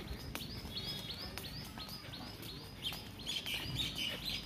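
A bird calling with a short, high repeated note, a little under three a second, getting busier near the end.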